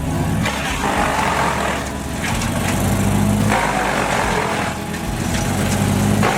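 Engine-driven wood chipper running steadily, with a rough noise that swells and fades every second or two over the engine hum.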